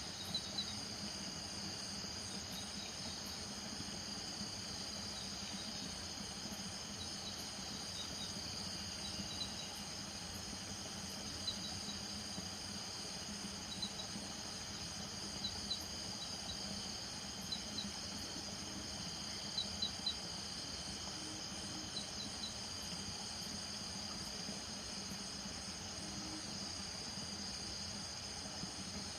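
Night chorus of crickets and frogs from marshy ground: a steady high insect trill, with short high chirps in twos and threes every couple of seconds and a low steady hum underneath.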